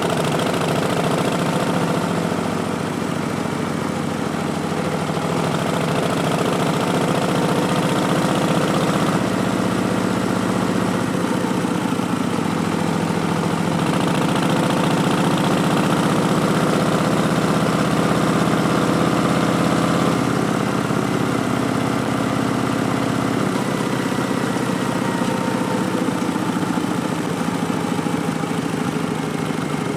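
Harley-Davidson Street Bob's Milwaukee-Eight 107 V-twin running through Vance & Hines Twin Slash slip-on exhausts while riding, the engine note rising and falling with the throttle.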